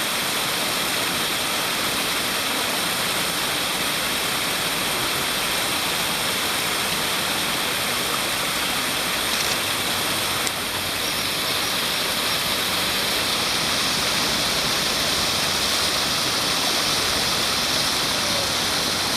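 Steady rushing of flowing water, like a stream or weir, with a faint steady high tone running through it.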